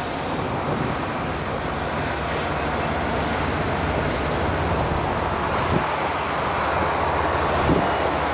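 Steady road and engine noise from inside a moving vehicle, with two faint thumps about six and eight seconds in.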